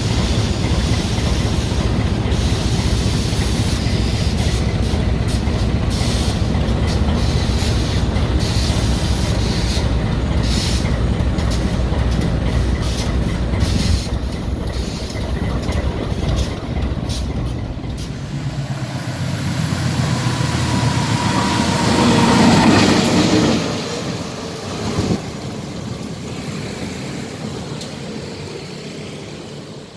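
Diesel-electric locomotive running on the track, a deep engine rumble with sharp clicks of wheels over rail joints. A little past the middle the deep rumble drops away, a brief whine rises to the loudest point, and the sound then fades.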